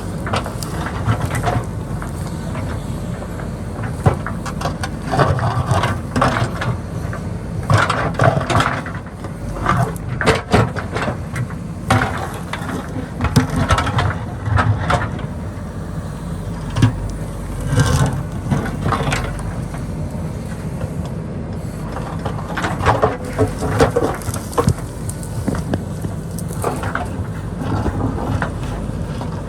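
JCB backhoe loader's diesel engine running steadily under load as the bucket digs the hillside. Repeated clusters of scraping and clattering rock and soil come through, with a few sharp knocks.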